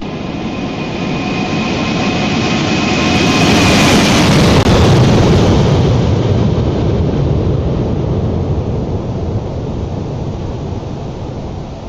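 Jet airliner's engines passing by: the rushing noise swells to a peak about four seconds in and then slowly fades, with a high whine that falls slightly in pitch as it goes past.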